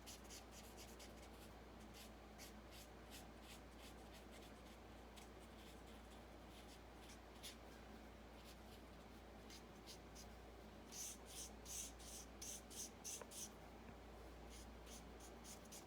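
Faint repeated strokes of a Stampin' Blends alcohol marker across card stock, a soft scratching with each stroke. The strokes come thicker and a little louder about two-thirds of the way through.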